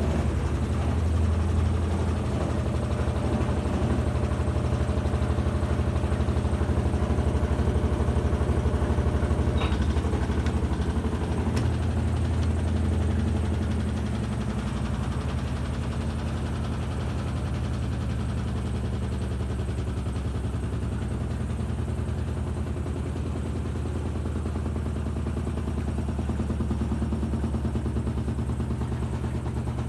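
Electrolux Turbo 13 kg washing machine running with a steady low motor hum, the noise its owner calls strange. The hum is a little louder for the first half and eases slightly about halfway through, with a few faint clicks.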